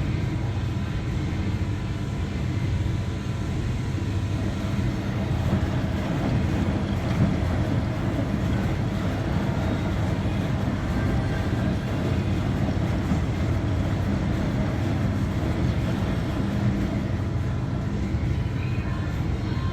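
Washing machine running through its cycle: a steady low motor hum and drum rumble that swells and eases every few seconds.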